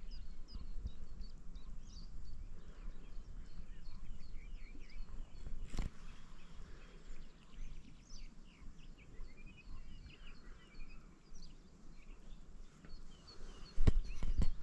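Several birds singing in short chirps and trills over a low rumble, with a single sharp knock about six seconds in and a few heavier bumps near the end.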